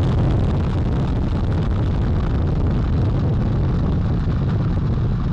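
Artemis 1 Space Launch System rocket's four RS-25 core-stage engines and two solid rocket boosters firing just after liftoff: a loud, steady, deep rumble of rocket exhaust noise.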